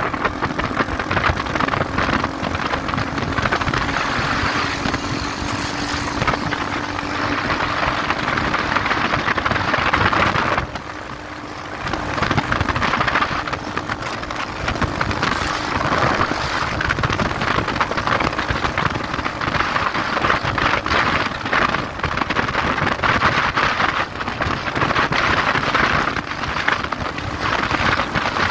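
Motorcycle riding at speed: the engine's steady tone under heavy wind rushing and buffeting over the microphone, with a short quieter lull about eleven seconds in.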